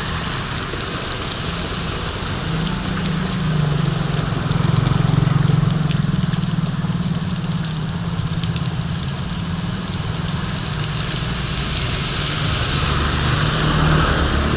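Heavy rain falling steadily, with a motor vehicle's engine running at low revs underneath; the engine grows louder a few seconds in, then eases off.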